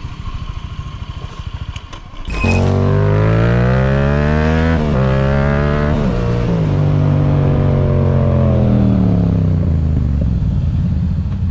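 Motorcycle engine, first ticking over in a choppy, uneven beat, then after about two seconds accelerating hard: its pitch climbs, drops and climbs again at two gear changes, then falls steadily as the bike slows.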